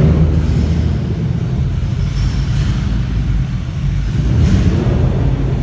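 Car engine rumbling low and steady, swelling slightly about four and a half seconds in.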